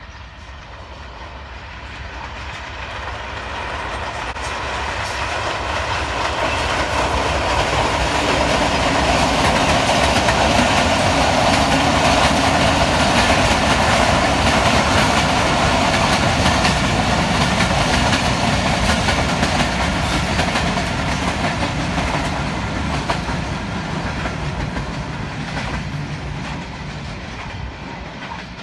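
Passenger train crossing a multi-span rail bridge, its wheels clattering over the rail joints. It grows louder to a peak about halfway through, then fades as it moves away.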